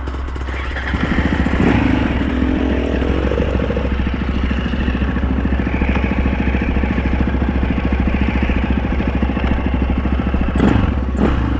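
Husaberg FE 650 dirt bike's single-cylinder four-stroke engine running, picking up revs about a second in and then pulling steadily.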